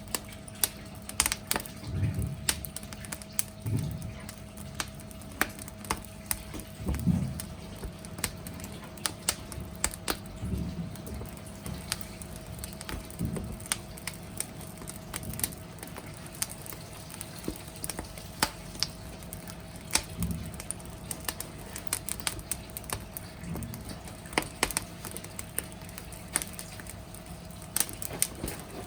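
Wood fire crackling, with irregular sharp pops and clicks and soft low puffs of flame every few seconds.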